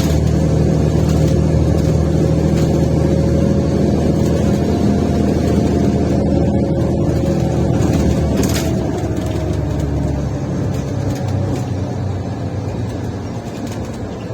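Diesel engine of a Mercedes-Benz O530 Citaro Ü bus, heard from on board, running loud and steady under load with a defective exhaust. About eight seconds in it eases off and its pitch slowly falls.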